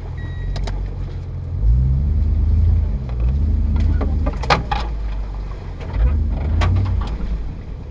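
Car engine revving in repeated surges that rise and fall, with several sharp knocks and clanks. An intermittent reversing-beep tone sounds in the first half second.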